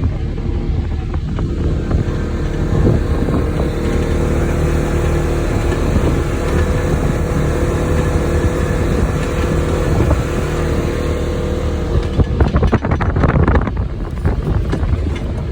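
Polaris off-road vehicle's engine running at a steady speed while riding, with a spell of rattling and knocking from about twelve to fourteen seconds in.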